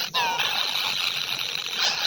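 A short, falling squeal-like call, a bird's, sweeping down in pitch over about a third of a second near the start, over a steady high hiss.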